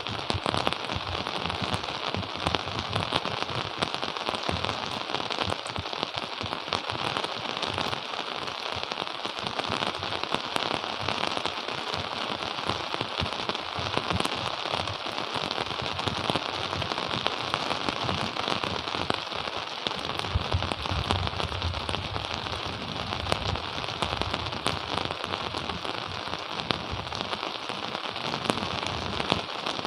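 Steady rain falling, a dense patter of many small drops on surfaces. A low rumble comes in underneath about two-thirds of the way through.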